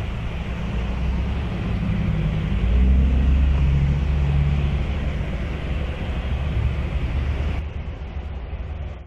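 Steady low rumble under a hiss, like background noise from a field recording; the hiss fades about three-quarters of the way through.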